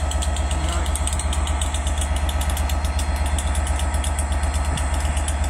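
Class 67 diesel locomotive idling with a steady low throb.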